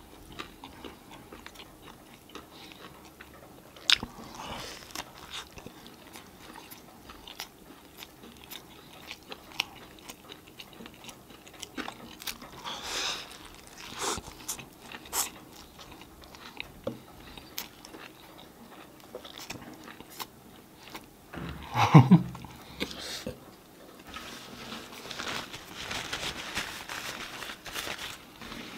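A person biting and chewing a grilled chicken burger, with a run of small wet mouth clicks and crunches. About three-quarters of the way through there is a louder moment with a short hum of the voice.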